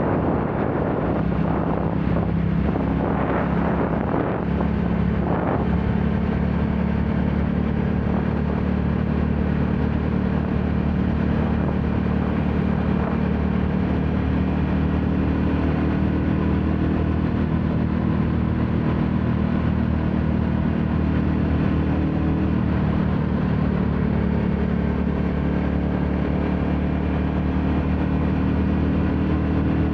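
Royal Enfield Classic 350 single-cylinder four-stroke engine running while riding, its note rising and shifting a few times in the first few seconds, then holding steady at a cruise.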